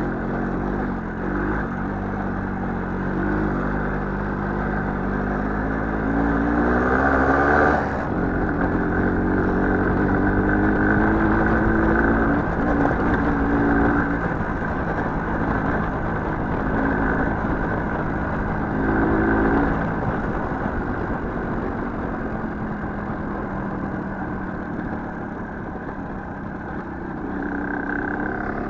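Small motorcycle engine being ridden, revving up through a long climb in pitch for several seconds, then easing off and picking up again in shorter surges.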